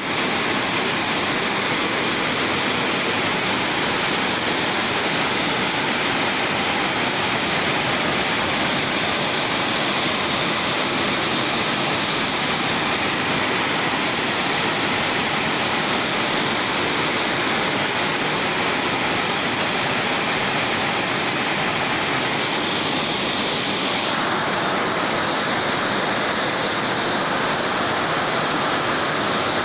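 Torrential rain pouring down in a heavy, steady hiss, with a slight change in its tone about two thirds of the way through.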